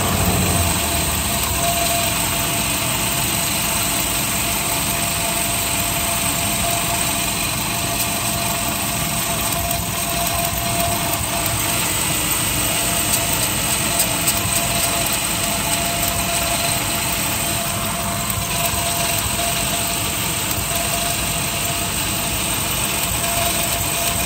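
2005 Subaru Forester's flat-four engine idling steadily, misfiring as spark arcs from the ignition coil to the water-misted coil wire; the owner traces it to a crack in the coil or that wire. A few faint sharp ticks come near the middle.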